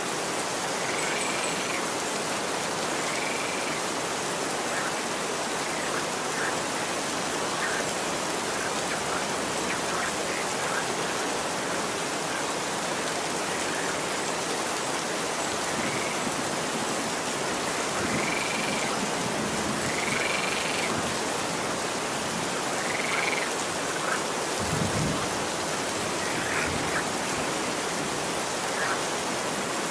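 Steady gentle rain falling, with a few short chirping calls of a small animal rising over it at intervals and a brief low thump late on.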